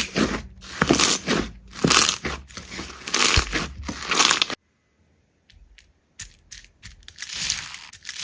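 Hands squeezing and pressing slime, in repeated squishes about once a second. The sound cuts off suddenly about halfway through, a few faint clicks follow, and the squishing starts again near the end.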